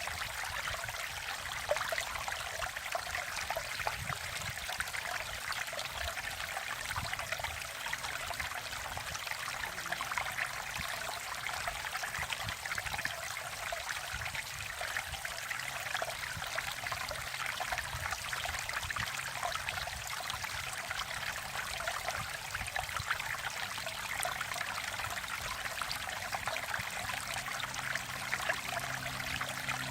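Valley stream running steadily: an even rush of flowing water with fine trickling.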